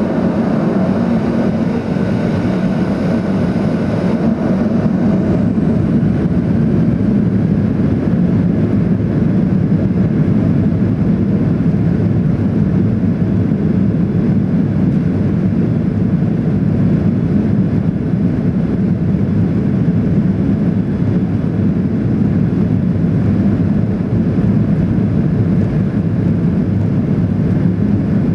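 Boeing 737-800 airliner's CFM56 jet engines running, heard as a steady, loud rumble from inside the passenger cabin.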